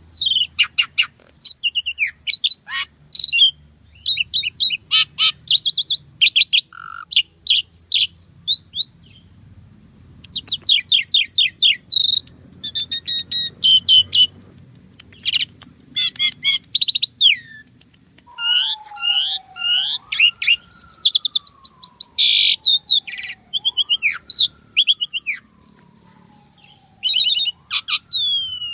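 Asian pied starling (jalak suren) singing a fast, busy run of chirps, trills and whistles mixed with mimicked calls. In the second half a slower, lower whistle rises and falls about three times beneath the chirping.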